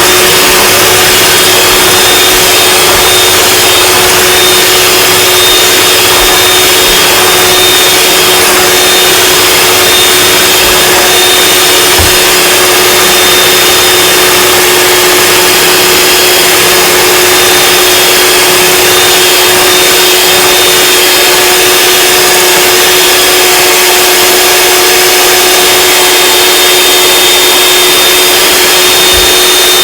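Electric mixer running steadily at high speed, whipping egg whites and sugar for macaron meringue that is not yet stiff.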